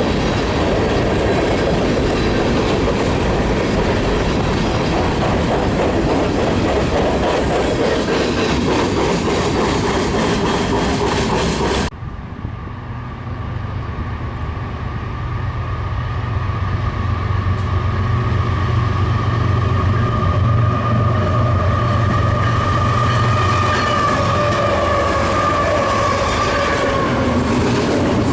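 Freight train cars rolling past with a steady wheel clatter. About twelve seconds in the sound cuts abruptly to a diesel locomotive drone that grows louder, with steady tones slowly sliding down in pitch.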